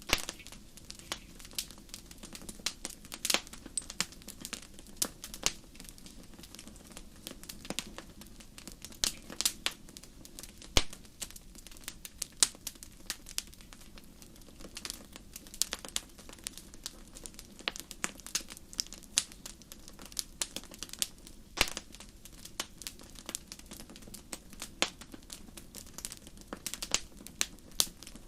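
Wood fire burning in a fireplace and crackling, with irregular sharp pops and snaps over a steady low rush. One pop about eleven seconds in is louder than the rest.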